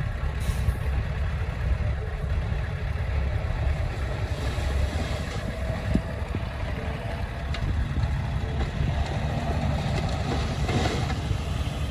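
Diesel engine of heavy earthmoving machinery running steadily, with a few short hisses and one sharp knock about halfway through.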